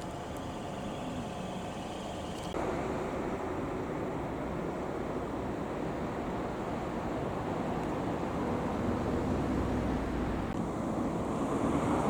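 Fire truck engine running, with wind on the microphone; the sound changes abruptly about two and a half seconds in and grows louder toward the end.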